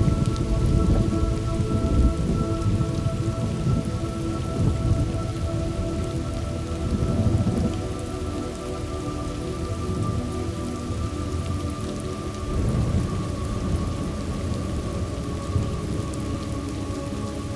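Thunderstorm ambience: steady heavy rain with low rolling thunder, strongest in the first couple of seconds. Faint steady held tones sound underneath.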